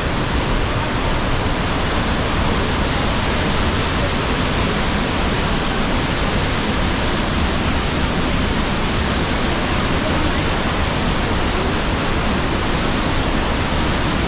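The Rhine Falls, a large waterfall, pouring down in a loud, steady, unbroken rush of water.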